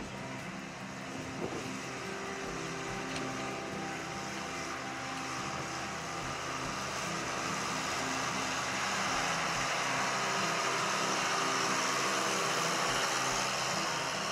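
Diesel engine of a Challenger MT525 tractor running steadily, the sound slowly swelling and loudest about two-thirds of the way through before easing off a little.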